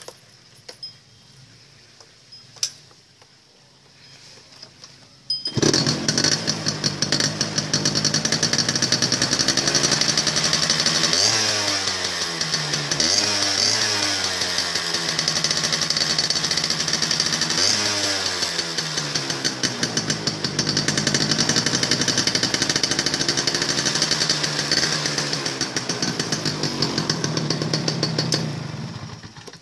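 Yamaha F1ZR's single-cylinder two-stroke engine heard through its exhaust: after a few light clicks it starts suddenly about five seconds in, runs steadily and is revved up and down several times in quick blips, dying away at the very end.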